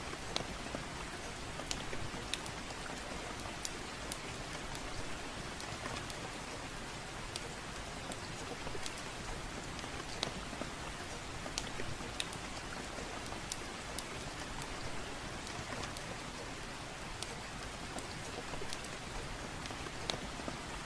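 Soft, steady rain, with sharp crackles from a wood fire in a fireplace scattered irregularly through it.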